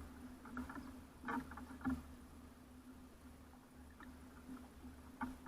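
Faint, scattered light taps and scuffs of small garden birds on a bird feeder, a handful of short clusters, over a steady low hum.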